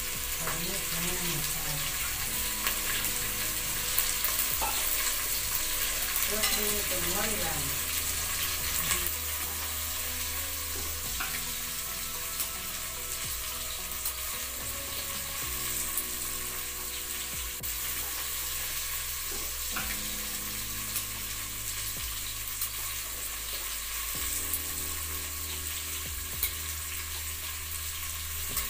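Okra frying in a steel pot over a wood fire, a steady sizzle with small crackling clicks, while a spoon stirs and taps in a steel bowl.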